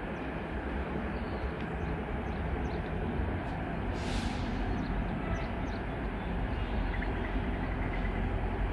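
Distant train approaching along the track: a low, even rumble that slowly grows louder, with a short hiss about four seconds in.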